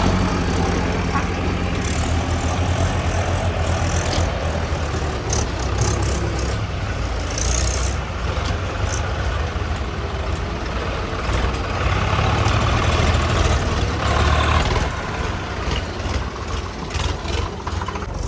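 Tractor diesel engines running steadily, with scattered knocks and rattles.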